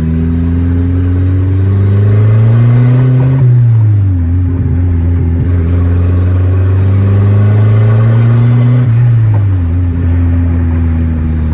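Turbocharged 1.6 engine of a Corsa pickup pulling hard twice, its pitch climbing each time. At each lift-off, about three and a half and nine seconds in, the pitch drops and the turbo flutters.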